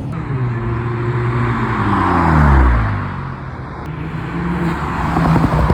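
A car passing close by, its engine note falling as it goes past and loudest about two and a half seconds in, followed by another engine running steadily.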